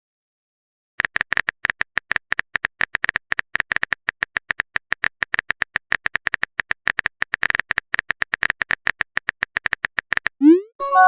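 Rapid keyboard typing clicks, about ten a second, for roughly nine seconds, as a chat message is typed. A short rising swoosh follows, as the message is sent, then a notification chime right at the end.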